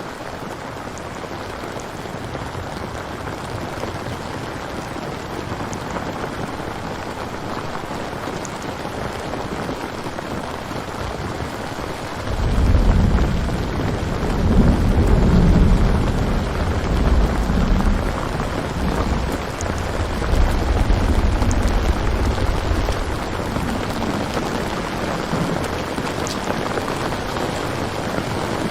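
Steady rain falling. About twelve seconds in, a long rolling rumble of thunder rises over it and fades out over the next ten seconds or so.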